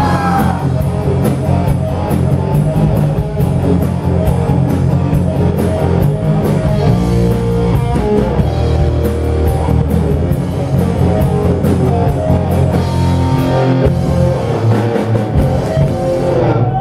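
Rock band playing an instrumental passage live: electric guitar and bass over a drum kit with steady cymbal and drum strokes, the song ending near the close.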